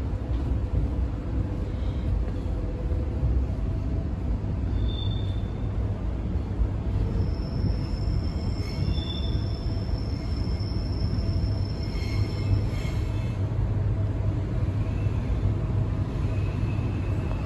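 Queensland Rail SMU 200 electric train running, heard from inside the carriage: a steady low rumble, with a few faint short high-pitched tones over it.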